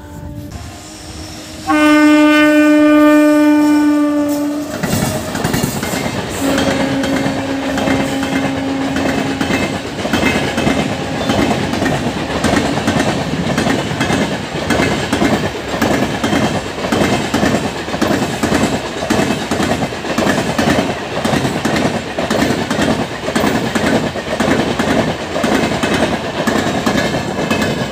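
Indian Railways parcel special train passing through a station at speed. A loud, steady horn blast sounds about two seconds in for about three seconds, then a second, softer horn blast of similar length, followed by the continuous rhythmic clatter of the vans' wheels over the rails as they rush past.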